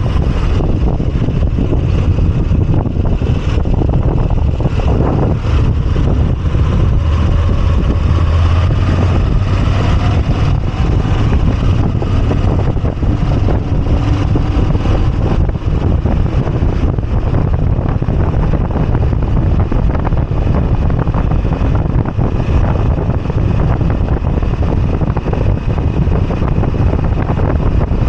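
Moto Guzzi V85TT's air-cooled transverse V-twin running while the motorcycle is ridden, its pitch drifting gently up and down with speed, with wind rushing over the microphone.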